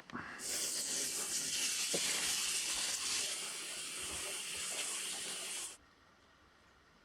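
Water running at a strong, steady flow, starting about half a second in and shut off suddenly near the six-second mark.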